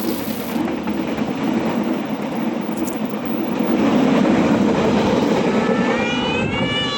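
Passenger train rolling past at close range: a steady rumble of wheels on the rails, swelling to its loudest about halfway through. A voice comes in near the end.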